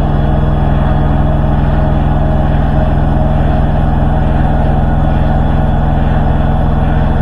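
Hoover H-Wash 300 Plus washing machine in its spin cycle, the drum spinning at high speed with a steady, loud hum.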